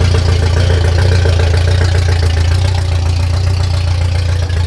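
Suzuki Sierra's 1.3-litre carburetted four-cylinder engine idling steadily, running on its first start-up after being swapped in, and sounding healthy.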